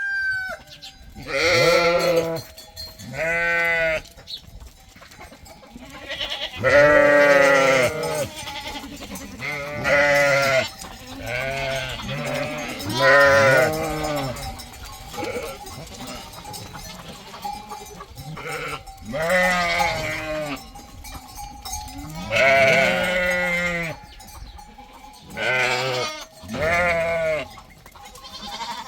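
Goats bleating again and again: about nine long, wavering bleats spread through the half minute.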